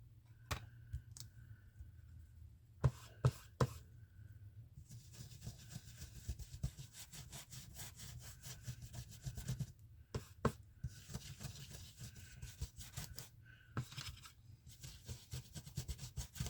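A blending brush is rubbed and swirled over a plastic stencil on paper, applying ink. There are two long stretches of soft scratchy brushing with scattered light taps and clicks between them.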